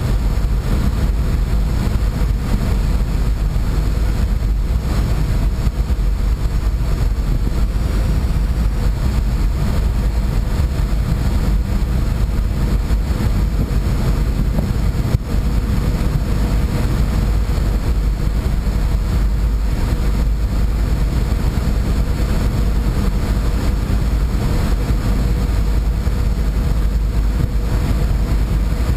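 A boat's engines droning steadily on board under way: a deep, unbroken rumble with a faint steady hum above it.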